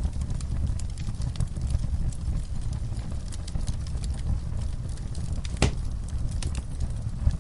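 Wood fire in a fireplace crackling over a steady low rumble of flames, with frequent small crackles and one louder pop a little past halfway.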